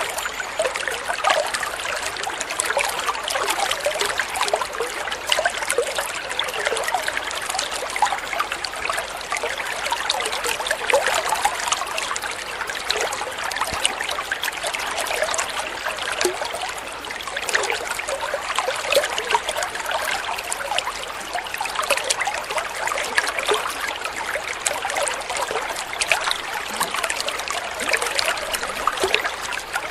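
Water trickling and splashing steadily over a shallow stream bed, with lots of small bright splashes.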